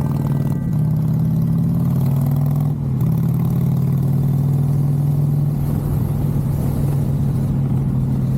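Harley-Davidson V-twin motorcycle engine running steadily under way, a low, even note with brief dips about half a second and three seconds in.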